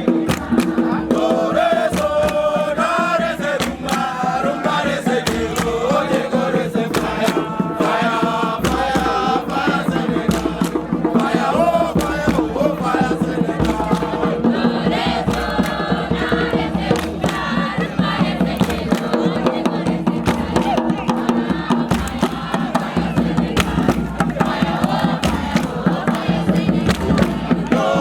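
A crowd of young people chanting and singing together, with frequent sharp percussive hits keeping the rhythm.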